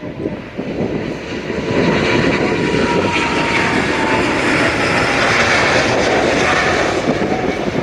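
Jet airliner taking off: the Rolls-Royce Trent XWB engines of an Airbus A350-900 at takeoff power. The engine noise swells about two seconds in and then holds loud, with a faint whine slowly falling in pitch. Wind buffets the microphone underneath.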